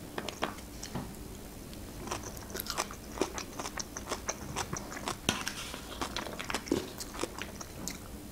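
Close-up chewing and crunching of food, with irregular sharp mouth clicks and crackles as someone eats.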